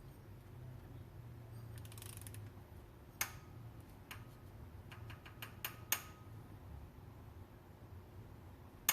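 Ratchet of a torque wrench clicking as a cylinder head bolt is tightened toward its 49 Nm torque setting, with a faint hum underneath. The clicks come one at a time, most of them between about three and six seconds in.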